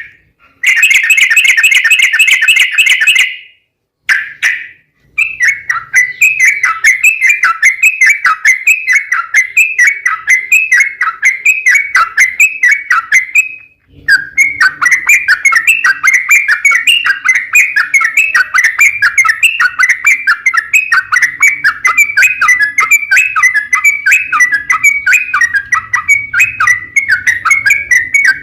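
Yellow-vented bulbul (trucukan) singing a long, fast run of short chattering notes, several a second, breaking off about three seconds in, resuming around five seconds and dipping briefly about halfway through.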